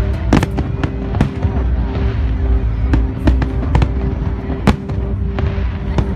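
Aerial fireworks display: shells bursting in an irregular string of sharp bangs, the strongest about three quarters of the way through, over a continuous deep rumble. The display's music plays underneath with long held notes.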